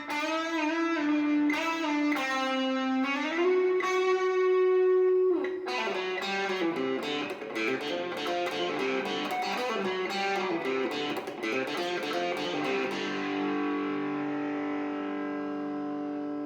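Squier Classic Vibe '70s Stratocaster electric guitar played through a Marshall MG30DFX amp with some gain. It plays held lead notes with vibrato and an upward bend, then a quicker run of picked notes, then ends on a chord left to ring and slowly fade.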